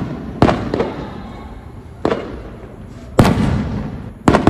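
Aerial firework shells bursting overhead: about five sharp bangs, each dying away in a rumbling tail, the loudest about three seconds in.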